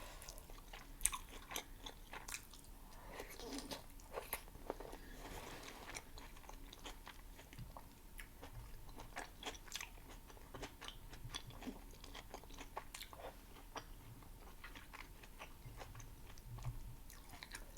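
Close-miked chewing of a soft, saucy burger with soggy bun and tomato: irregular wet smacks and small crunches.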